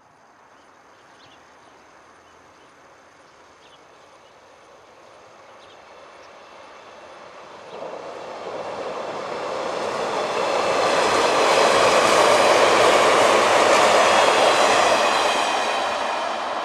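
A JR 485-series electric train approaches and passes at speed. It is faint at first, grows sharply louder from about eight seconds in, is loudest a few seconds later as it goes by, then eases off.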